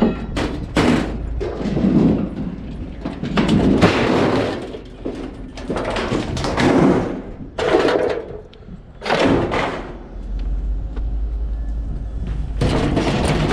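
Scrap being wrenched and handled: a series of knocks, scrapes and rattles in bursts, a second or so apart, over a steady low hum.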